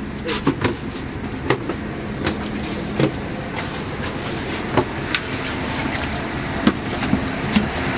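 Scania K410IB double-decker bus running, a steady engine and road drone with a low hum, broken by frequent short sharp clicks and rattles.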